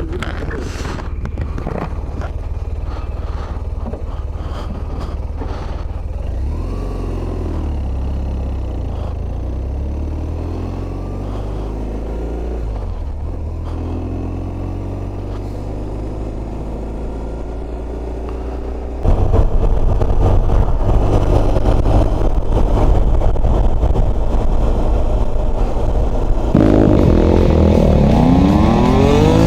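Motorcycle engine running and revving, with pitch rising and falling several times. About two-thirds through it gets suddenly louder, and near the end it revs up sharply, as when pulling away.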